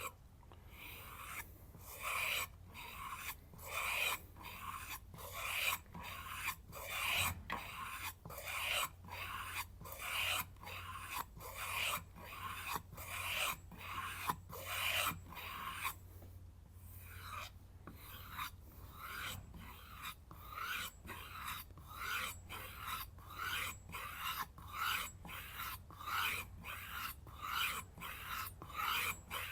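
Chef's knife edge stroked along a raw kangaroo tail strop with no compound: a rhythmic series of scraping strokes, about one to two a second, with a short break about halfway. The strop's ridges are stripping off the root of the burr (the wire edge).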